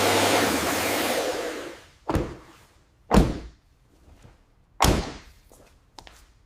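A steady hissing noise with a low hum fades out about two seconds in. Then come three separate sharp thuds about a second apart, and a few faint knocks near the end.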